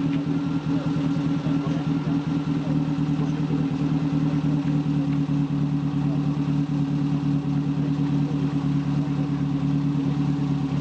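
Rally car's engine idling steadily at a standstill.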